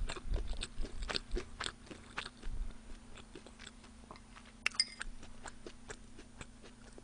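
Close-up chewing and crunching of fried chicken with onion: a run of small crisp crunches through the first few seconds, then quieter. A brief ringing clink of metal chopsticks against a porcelain bowl near the middle.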